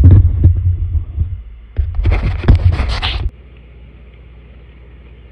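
A cluster of knocks and thumps, then a denser scraping, rustling stretch that stops suddenly about three seconds in, followed by a steady low hum.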